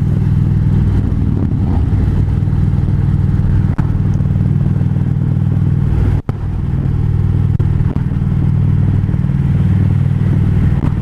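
Harley-Davidson Road Glide's V-twin engine running steadily at highway cruising speed, with a brief dip in the sound about six seconds in.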